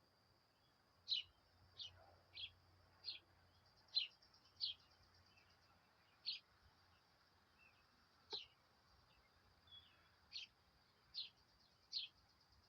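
A songbird giving about a dozen short, sharp chirps, each dropping in pitch, at an uneven pace. Under them runs a steady high insect trill. Everything is faint.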